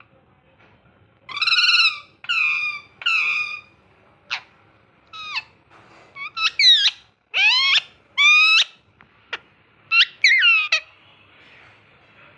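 Ringneck parrot calling: a string of about a dozen loud calls, some short and some longer, many arching up and down in pitch.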